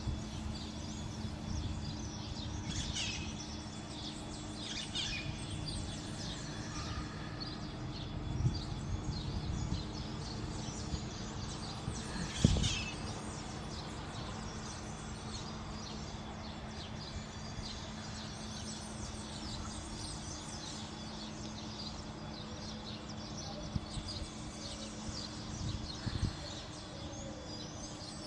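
Small birds chirping over a steady low background hum of city ambience, with a single thump about twelve seconds in.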